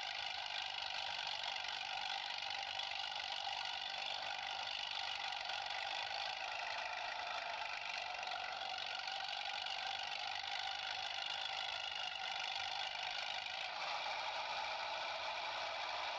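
Small motor running with a steady whir, changing slightly in tone about fourteen seconds in.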